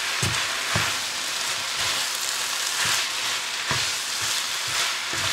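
Fried mie noodles sizzling in a hot wok with a steady hiss, while grill tongs toss them. A few short soft knocks come through as the noodles are lifted and dropped.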